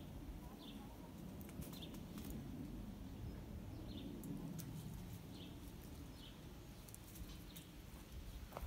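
A small bird chirping in the background, a short falling chirp every second or so, over a steady low rumble and scattered faint rustling clicks.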